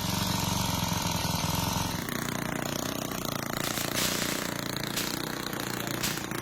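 Engine running steadily, its sound changing abruptly about two seconds in.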